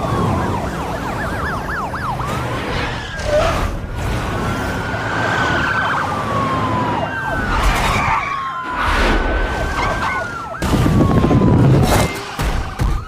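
Emergency vehicle sirens wailing, several overlapping and sliding slowly up and down in pitch, with a fast warbling yelp in the first second. Beneath them runs heavy noise with knocks, and a low rumble swells loudest near the end.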